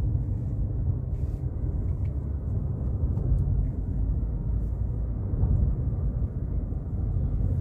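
Steady low rumble of a car driving along a highway, heard from inside the cabin: engine and tyre road noise.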